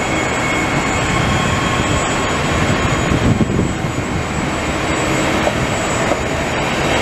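Israel Railways double-deck passenger train rolling past: a steady rushing rumble of wheels on the rails, with a few faint high tones over it.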